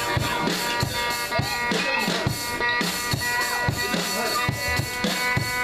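A live rock band playing: a drum kit's kick and snare keep a steady beat under electric guitars and bass holding sustained chords, with some bending notes above.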